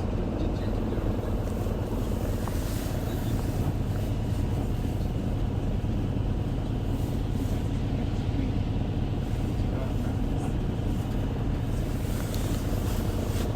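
Isuzu Erga city bus (QDG-LV290N1) running along, heard inside the cabin: a steady engine and road rumble, heaviest in the low end.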